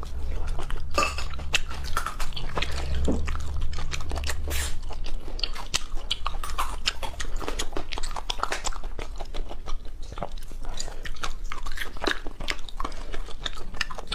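A person chewing and biting food close to the microphone: many quick, irregular wet clicks and crunches. A low hum sits underneath for the first few seconds and stops about four and a half seconds in.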